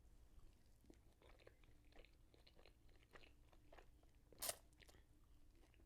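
Faint, close-up chewing of crunchy nachos: soft crackling crunches of tortilla chips, with one louder crunch about four and a half seconds in.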